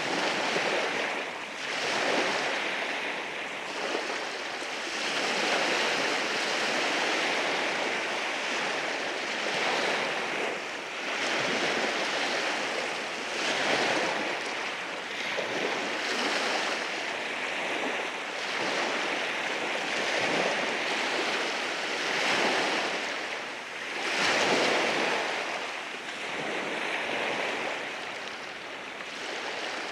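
Sea waves breaking and washing over rocks along a shoreline: a continuous rush of surf that swells and eases every few seconds, the strongest wave about three-quarters of the way through.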